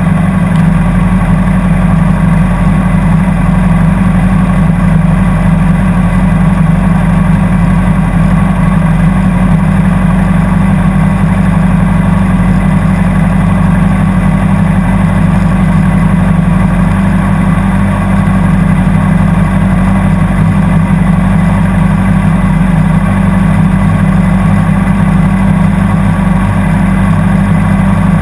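Honda CBR600RR sport bike's inline-four engine idling steadily, heard loud and close from on board.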